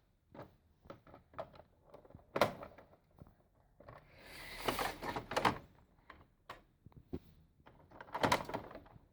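Plastic clicks and knocks as a toy dollhouse elevator is worked by hand, with a scraping slide about halfway through and a few louder knocks near the end.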